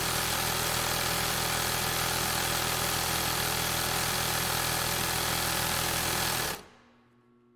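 Industrial sewing machine running steadily at speed, a dense mechanical clatter over a low motor hum, which stops abruptly near the end.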